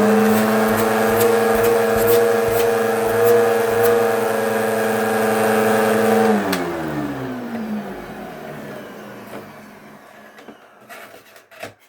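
Eureka Whirlwind upright bagless vacuum cleaner running steadily with its hose pulled out for a suction check, a few sharp clicks over it. About six seconds in it is switched off and the motor winds down, its whine falling in pitch and fading out.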